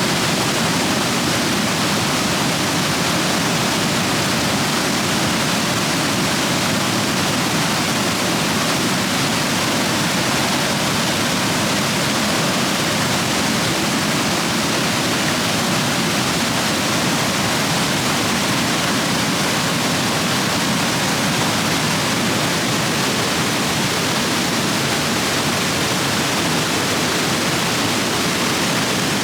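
Rain-swollen stream rapids rushing over rocks, a steady, unbroken roar of water.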